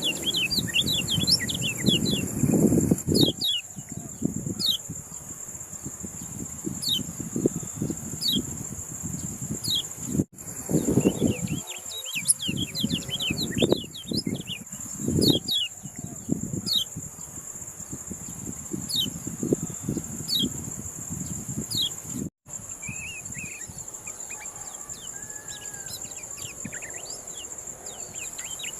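Kecial kuning songbird singing a run of quick, high, falling chirps, over a steady high insect whine. A low rumbling noise sits under the first half and fades away about halfway through.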